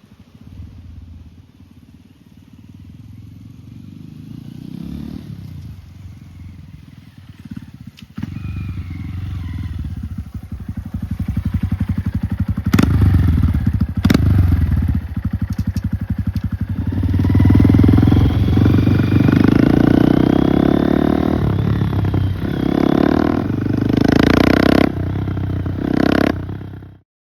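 Honda Monkey motorcycle's single-cylinder engine running, growing from faint to loud as it comes closer, then revving with its pitch rising and falling. The sound cuts off abruptly near the end.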